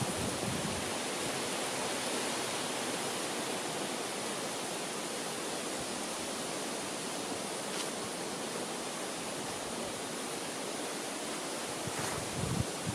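Wind rushing steadily through the tree canopy, leaves rustling in a continuous hiss. Near the end a brief gust buffets the microphone with a low rumble.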